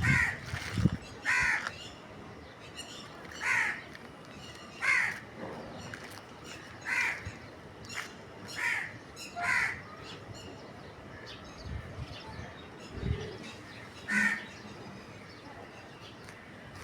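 Harsh, short bird calls repeated about a dozen times, one every second or two, with a couple of low thumps.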